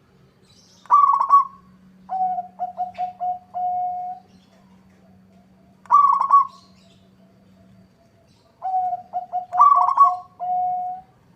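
Zebra doves cooing: runs of quick staccato coos at one pitch ending in a held note, with shorter, higher calls from a second bird in between, the two overlapping near the end. A faint steady low hum runs underneath.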